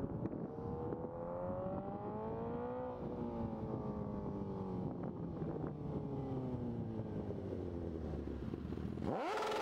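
Suzuki GSX-R1000 inline-four sport bike running through a Two Brothers full exhaust. Its engine note climbs for about three seconds, then falls away slowly, and near the end it rises again sharply and quickly.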